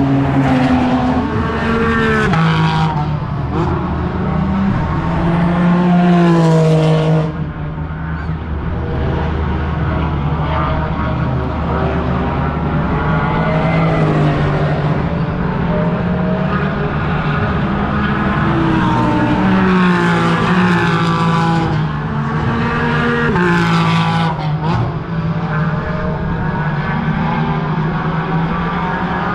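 Racing cars running on a circuit, several engines passing one after another, each rising in pitch and breaking off as it shifts gear.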